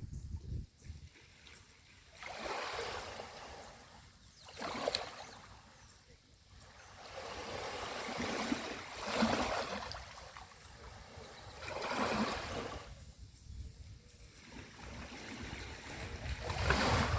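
Small sea waves washing onto the beach and drawing back, each wash of surf swelling and fading every few seconds.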